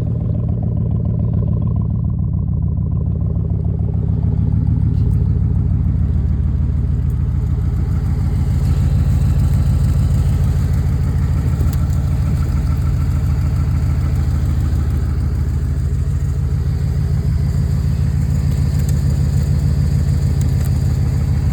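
Chevy Silverado Z71 LTZ engine idling steadily just after a cold start in freezing weather, getting a little louder a few seconds in.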